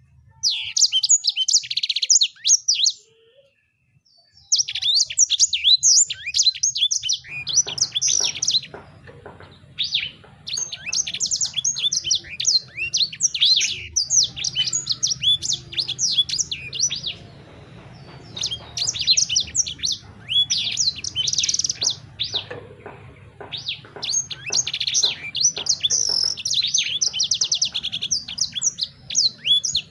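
A songbird singing fast, chattering phrases of high chirps, each a few seconds long with short pauses between them. A low steady hum runs underneath from about a quarter of the way in.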